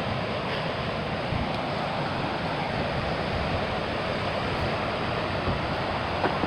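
Steady rushing of a river in flood, its fast high water making an even, unbroken wash.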